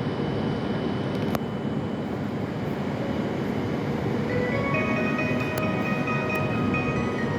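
Steady rumble of a Shinkansen platform with the train standing at it, then about four seconds in an electronic departure melody starts playing, signalling the train's imminent departure.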